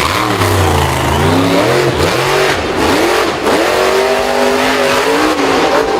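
Engine revving, its pitch repeatedly rising and falling, with a brief steadier stretch about two-thirds of the way in.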